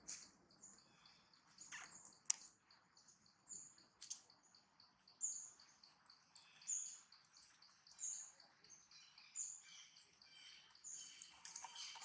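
Faint forest ambience: a bird repeating a short high chirp about every second and a half, with two sharp clicks about two seconds in.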